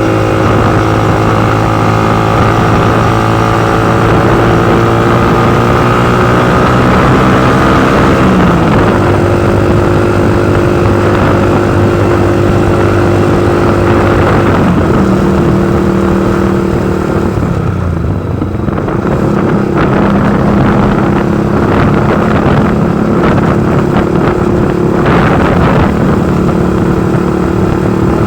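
Motorcycle engine running while riding, with steady wind and road noise. Its pitch climbs and then drops about eight and a half seconds in and again about fourteen seconds in, as on gear changes, and it eases off briefly around eighteen seconds before pulling again.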